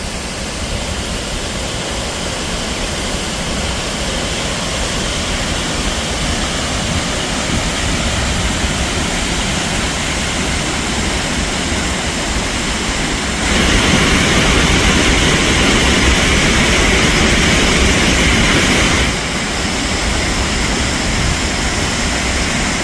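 Steady rushing roar of Multnomah Falls, a very tall waterfall, pouring down; the roar jumps louder for about five seconds in the middle, then drops back.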